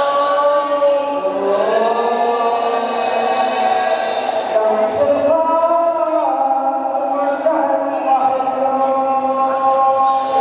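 A voice chanting or singing a slow melody in long held notes that step and slide from pitch to pitch.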